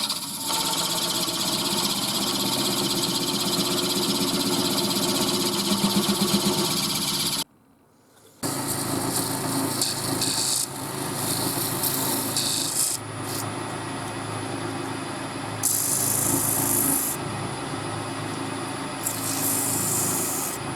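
Wood lathe running while a tool works the spinning wood, with a steady motor hum under scraping and rubbing. The sound cuts out for about a second near the middle, then returns with shifting hiss as the work on the wood continues.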